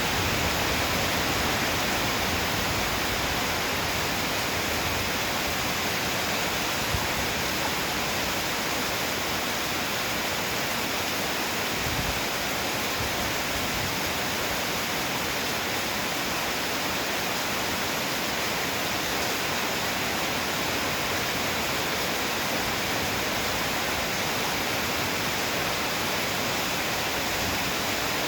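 Heavy pouring rain making a steady, dense hiss.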